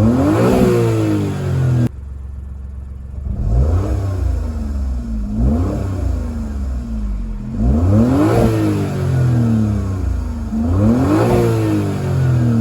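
Suzuki Kei Works' K6A 660 cc turbocharged three-cylinder engine, fitted with a full aftermarket exhaust and Kakimoto muffler, revved in repeated quick blips from idle, each one rising and falling back. Four or five blips come roughly every few seconds. The sound drops suddenly to idle about two seconds in.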